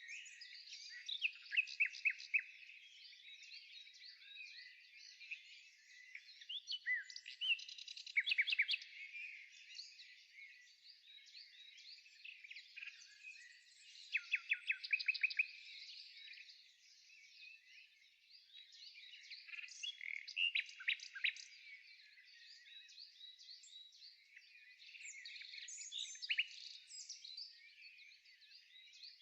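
Birds singing and chirping, with a quick run of several repeated notes every few seconds.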